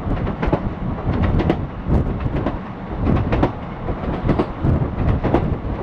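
A passing train: wheels clacking repeatedly over rail joints over a low rumble.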